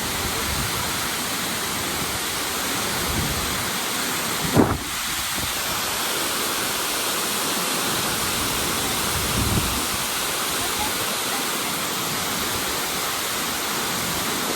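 Steady rush of a large, powerful waterfall. A sharp low thump breaks through about four and a half seconds in, and a softer one comes near ten seconds.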